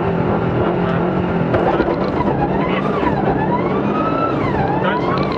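Subaru Impreza GDB's turbocharged flat-four engine accelerating hard away from a rally stage start, heard from inside the car. The revs climb and drop at each upshift.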